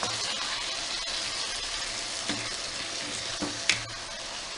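Chicken pieces in a spiced tomato masala sizzling steadily in a pan, with a few sharp clicks and scrapes of a spoon against the pan, the loudest about three quarters of the way in.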